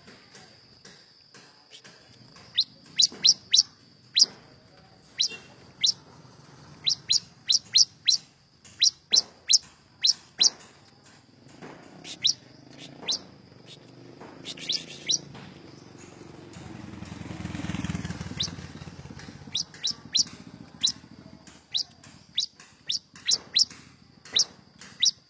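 Small prinia-type songbirds (prenjak / ciblek) calling: sharp, high chirps, each a quick downward sweep, coming in rapid clusters of three to five. A low rumble swells and fades about two-thirds of the way through.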